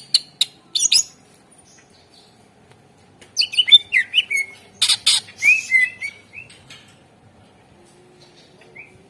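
Cucak ijo (greater green leafbird) singing: short bursts of fast, sweeping whistled notes mixed with sharp clicks. There is a brief phrase at the start, then a long busy phrase in the middle, and a single note near the end.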